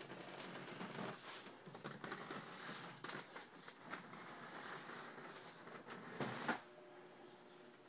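Irregular rustling and clicking, like things being handled, with a louder knock about six and a half seconds in.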